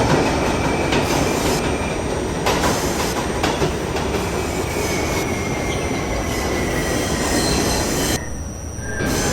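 An R68A New York subway train running between stations: a steady rumble with thin, high wheel-squeal tones drawn out over it and a few sharp rail-joint clicks. The sound drops briefly, for under a second, about eight seconds in.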